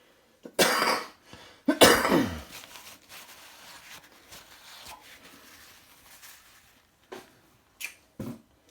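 A person coughing twice, sharply, with a few faint knocks near the end.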